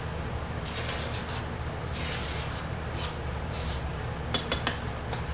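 Handling noises from working with damp firework star composition and tools: a few brief scraping, rubbing strokes, then a short run of sharp clicks near the end, over a steady low hum.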